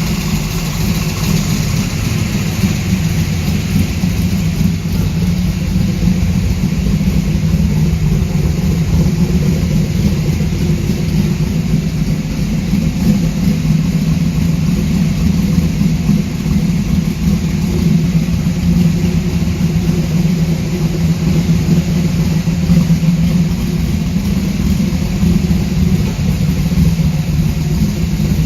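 A 355-cubic-inch stroker V8 idling steadily, with a deep, even running note throughout.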